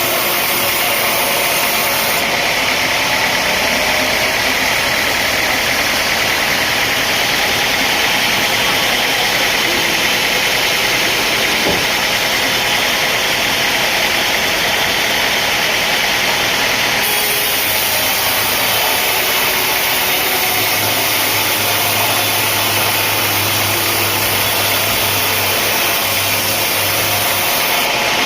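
Sawmill machinery running steadily: a loud, constant mechanical noise with no distinct strikes.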